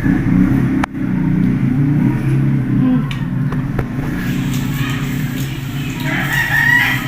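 A steady low engine rumble from road traffic, with a rooster crowing near the end. There is a sharp click about a second in.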